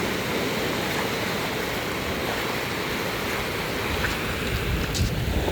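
Steady rush of ocean surf and wind, with wind buffeting the microphone as a low rumble that swells near the end.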